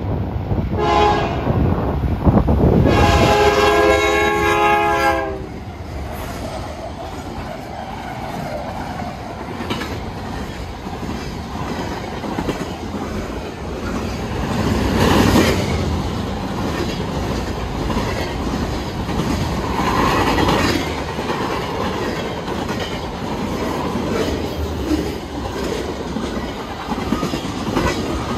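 Freight train locomotive horn sounding a short blast and then a long one, followed by the steady rumble and clickety-clack of the locomotives and loaded freight cars rolling past at close range, with a couple of brief louder swells of wheel noise.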